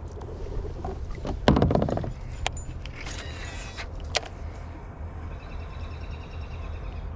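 Kayak being manoeuvred and gear handled: a steady low rumble of hull and water noise, with one loud knock about one and a half seconds in and a few sharp clicks after it.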